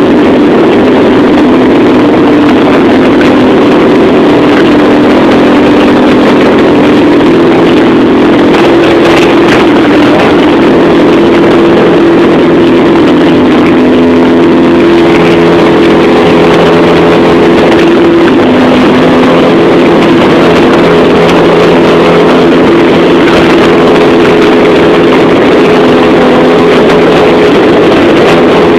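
Cessna 177 Cardinal's single piston engine and propeller running at steady high power for takeoff: a loud, even drone whose tones shift slightly in pitch now and then.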